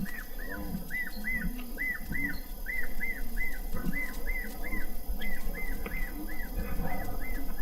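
Animal calls: a high call repeated about three times a second, each note rising then falling, over lower, irregular calls.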